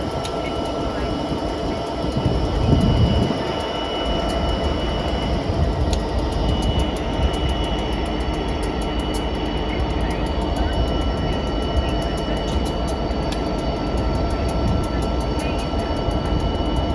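Train running past: a steady rumble with thin high tones held over it, swelling briefly about two seconds in, and a rapid ticking that builds from about six seconds in.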